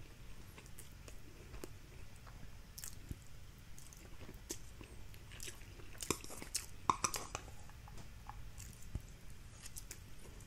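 Quiet chewing of dry mi goreng fried instant noodles, with scattered light clicks that bunch together about six to seven seconds in.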